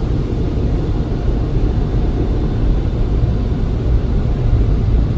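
Automatic car wash air-dryer blowers running, a steady loud rumble heard from inside the car.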